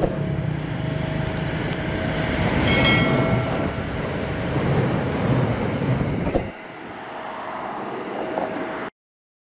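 Daewoo DRC diesel railcar train passing, with engine rumble and wheel-and-rail noise. A brief high ringing tone comes about three seconds in. The low rumble drops away abruptly about two-thirds of the way through, leaving a lighter rattle, and the sound cuts off near the end.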